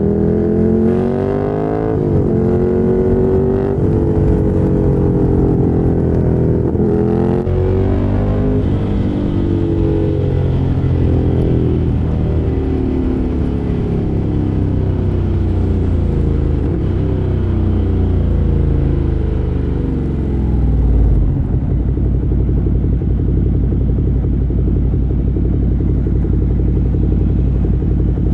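Ducati Monster 797's air-cooled L-twin through a LeoVince LV-10 exhaust, revving up through several gear changes early on with brief dips in pitch at each shift. It then slows with the engine note falling, and settles to a steady, lumpy idle about 21 seconds in.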